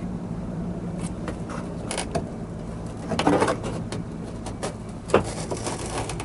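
Mitsubishi Fuso Super Great truck's 6R20 diesel engine idling with a steady low hum. Over it come scattered clicks and knocks of parts being handled, a cluster a little after three seconds in and the sharpest one around five seconds in.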